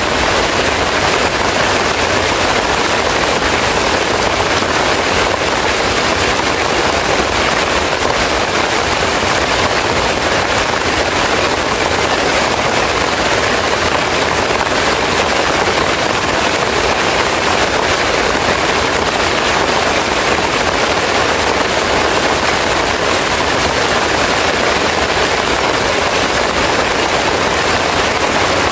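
Heavy rain pouring down steadily as a dense, even hiss that does not let up.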